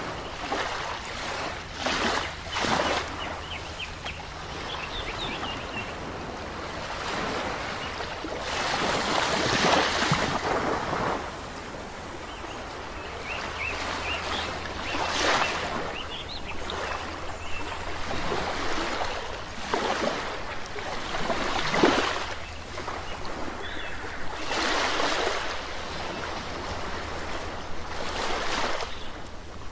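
Sea waves washing onto a shore, each surge swelling and fading every few seconds, with short bird calls chirping in the background in the first few seconds and again around the middle.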